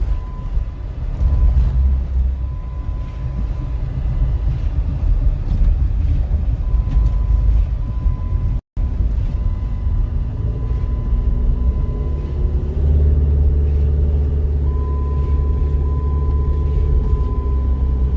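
Car engine and road rumble, steady and loud in the low range, with a brief dropout near the middle where the sound cuts out and resumes.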